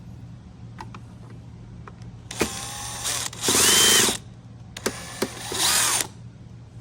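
Cordless power drill driver running in three short bursts, backing out trim-panel screws, with the middle run the loudest, and small clicks of the bit and screws between runs.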